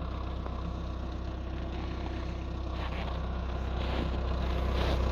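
Skoda Octavia 1.6 TDI diesel engine idling while warming up after a cold start in about −20 °C frost: a steady low hum that grows gradually louder, with a few faint scuffs in the second half.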